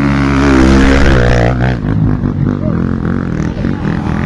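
Off-road motorcycle engine running, its pitch rising and shifting about a second and a half in, then running on more unevenly.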